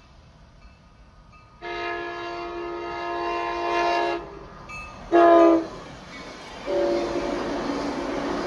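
Diesel locomotive's multi-chime air horn sounding the grade-crossing signal: a long blast, a short louder blast, then another long blast as the train's running noise builds under it.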